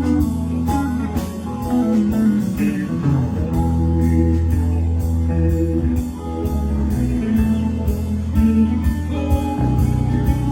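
Live band playing an instrumental passage: guitar lines over sustained bass and a steady drum beat with evenly spaced cymbal strokes.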